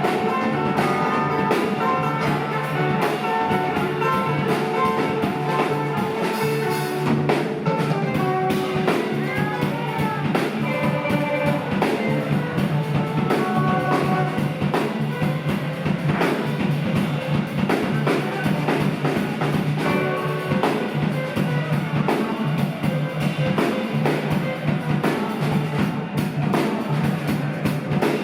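A live rock band playing an instrumental passage with electric guitar, bass and drum kit, the guitar lines sliding up and down in pitch.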